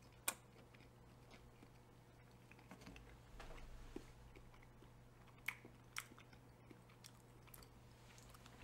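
Faint chewing of a bite of soft, microwaved cauliflower-crust veggie pocket, with a few small sharp clicks, the first just after the start and two more about five and a half and six seconds in.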